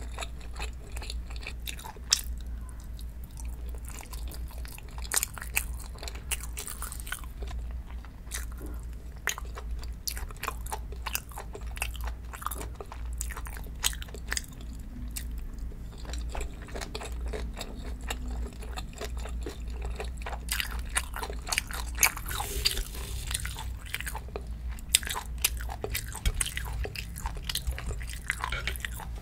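Close-miked chewing and biting of food, with frequent small wet clicks and crunches, over a steady low hum.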